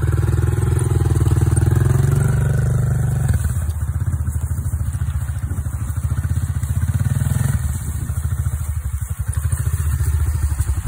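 Dirt bike engine running. It is loudest for the first three seconds, then drops to a lower, steady note, with a small rise that falls back about two-thirds of the way through.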